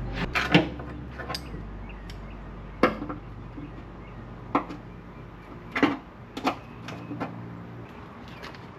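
Several sharp, separate knocks and clinks a second or more apart, like tools or metal parts being picked up and set down, over a low steady hum that drops off about a second and a half in.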